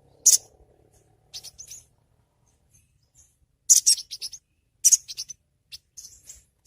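Sogon (sogok ontong) bird calling: short, sharp high-pitched chirps, one loud chirp at the start, then quick runs of chips about four and five seconds in and softer chirps near the end. A lure call meant to set a caged sogon calling.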